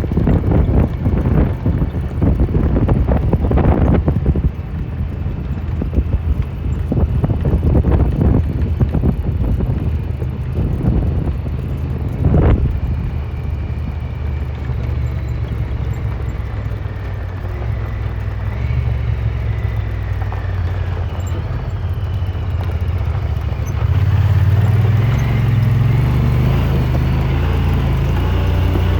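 Side-by-side utility vehicle's engine running as it drives, with wind buffeting the microphone and knocks and rattles over rough ground in the first half. The engine gets louder and steadier about 24 seconds in.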